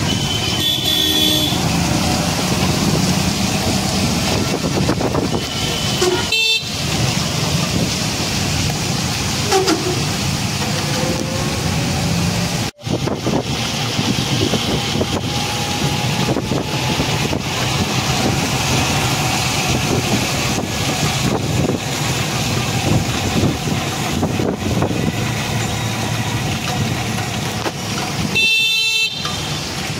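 Road traffic noise from moving vehicles, steady and loud, with vehicle horns tooting briefly a few times, once near the start and once near the end. A brief drop-out about halfway through.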